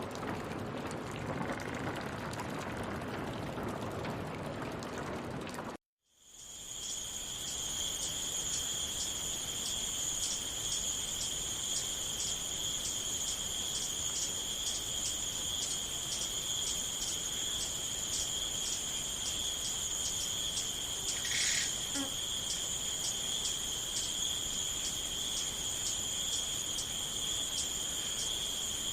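A steady rush of water that cuts off about six seconds in, followed by crickets chirping: a continuous high trill with an even pulse about twice a second. There is one short extra chirp about two-thirds of the way through.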